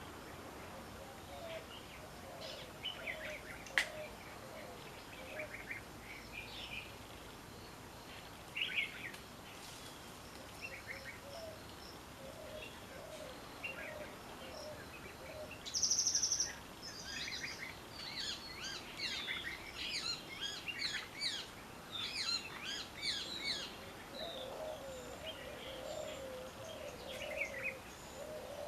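Wild birds chirping and calling, with many short chirps that come thickest in the second half and one short, louder high call about halfway through. A lower, wavering call repeats underneath near the start and again near the end.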